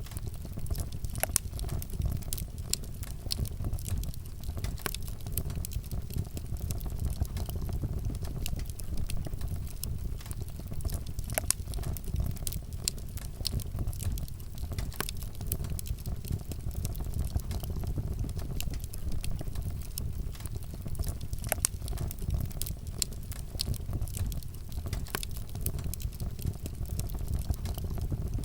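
Campfire burning, wood crackling and popping in sharp irregular snaps over a steady low rumble.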